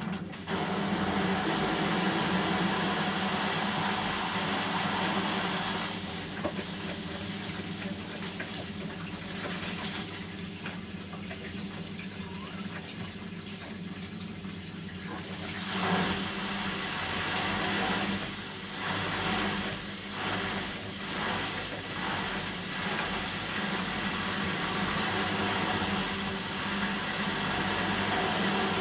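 Bosch WAN28220FF front-loading washing machine running a synthetics 40 °C cycle, with a steady hum and water rushing. From about 16 seconds in, the sound swells and falls roughly once a second.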